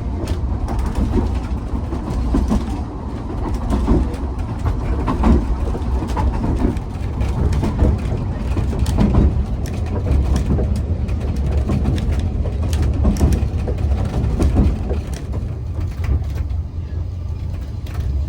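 Narrow-gauge Ffestiniog Railway train running: a steady low rumble with irregular clicks and knocks from the wheels and carriage.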